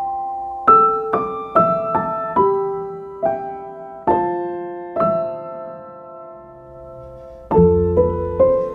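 Soft background piano music: single notes struck about every half second and left to ring, a longer held pause past the middle, then fuller low chords near the end.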